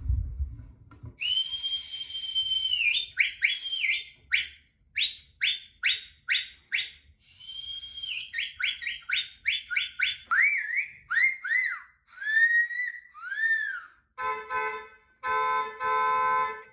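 A shrill whistle playing a long held note, then a run of quick short blasts and swooping chirps that bend up and down. Near the end it gives way to a lower, reedy held tone in short bursts.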